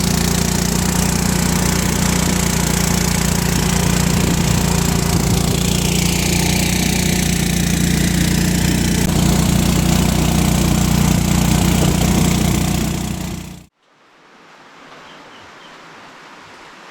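A small engine running steadily at a constant speed. It stops dead near the end, giving way to faint outdoor ambience with a few high bird chirps.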